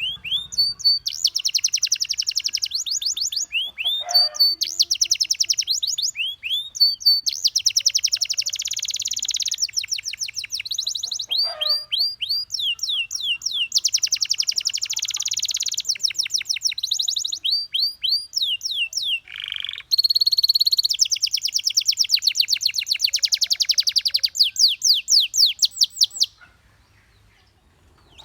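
Domestic canary singing a long song of fast trills and rolls, each phrase a rapid run of identical high notes, breaking off shortly before the end.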